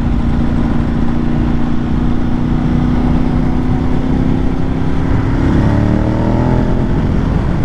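Ducati 1098's L-twin engine pulling at steady revs, its note sagging slightly. About five and a half seconds in, the revs climb as the bike accelerates. Heavy wind noise rushes over the microphone throughout.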